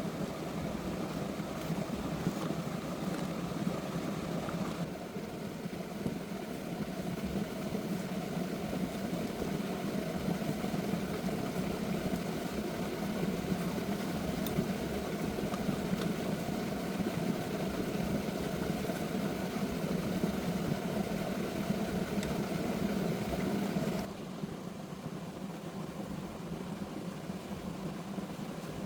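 A motor running steadily, with a low hum and a rough, noisy texture. Its sound changes abruptly about five seconds in and again near the end.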